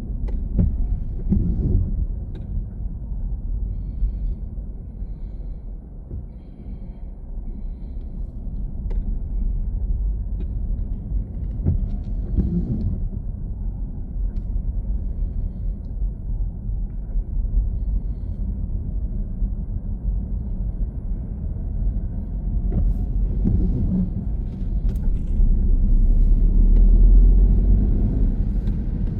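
Car driving: a steady low rumble of engine and road noise that swells louder near the end.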